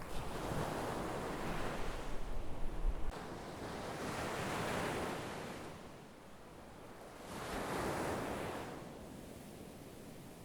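Sea waves breaking and washing onto the shore in three swells that rise and fade, with a low rumble of wind on the microphone for the first few seconds.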